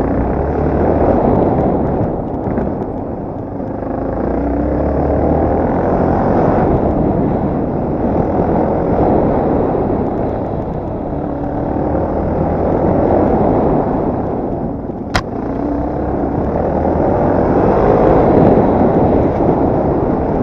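Yamaha TT250R's single-cylinder four-stroke engine running under load off-road, its revs repeatedly rising and easing. A single sharp click about fifteen seconds in.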